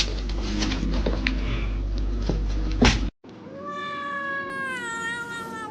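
A cat's long, drawn-out meow that slowly falls in pitch, starting about three seconds in. Before it there is a stretch of rumbling, clattering noise with a few sharp clicks.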